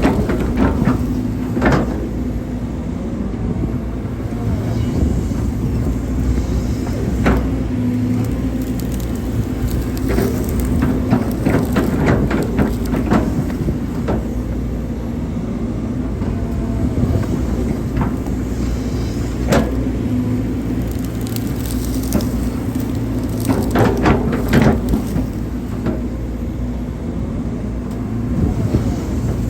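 Hydraulic excavator's diesel engine running steadily while digging, with scattered sharp knocks and clanks from the bucket and arm, the clearest about two seconds in, near seven seconds, about twenty seconds in and around twenty-four seconds.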